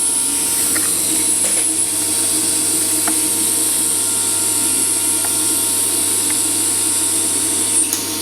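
A power tool running steadily, with a strong high-pitched hiss over a constant hum and a few faint clicks.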